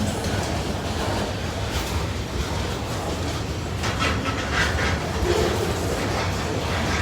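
Freight cars of a CSX train rolling past, their steel wheels clattering over the rails with a steady rumble. A few brief, sharper metallic sounds come about four seconds in.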